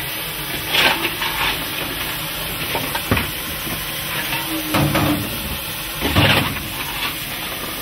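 Romanian-built narrow-gauge steam locomotive hissing steam steadily, with several brief, louder metallic clanks over it.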